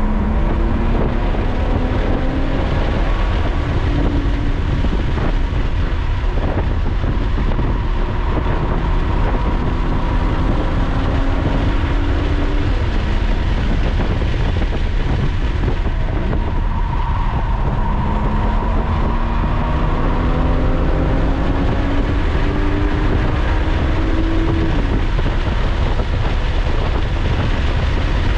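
Lotus sports car engine heard from inside the cabin, accelerating hard: its pitch climbs in several long pulls, each broken off by a gear change or a lift, over a heavy steady rumble of road and wind noise.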